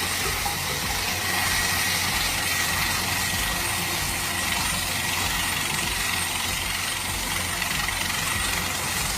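Steady mechanical running noise: an even hiss with a faint high whine, unchanging throughout.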